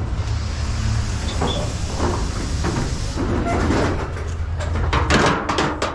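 A vehicle engine running with a steady low rumble, with knocks and rattles, the loudest cluster about five seconds in.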